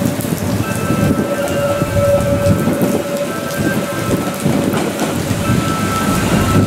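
Hanshin 5001-series commuter train running in along the track through heavy rain, its low rumble mixed with the hiss of rain and spray thrown up from the wet rails. A steady whine sounds over it for the first few seconds.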